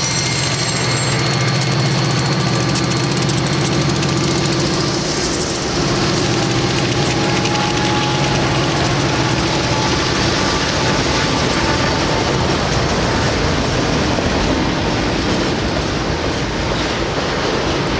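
Departing freight train's diesel locomotive passing close by under power, its engine drone loudest for about the first five seconds, then giving way to the steady rumble and clatter of freight cars rolling past on the rails.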